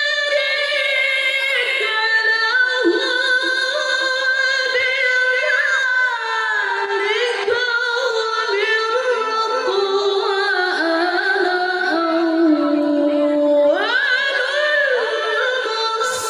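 A male Quran reciter chanting in a high register: one long ornamented melodic phrase of Quranic recitation (tilawah) sung on a single breath. The line sinks lower after about twelve seconds, then leaps back up to the high register shortly before a breath near the end.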